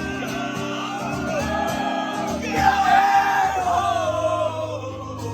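Live rock band playing, with a man singing long held, wordless notes over the instruments. The voice swells loudest about midway.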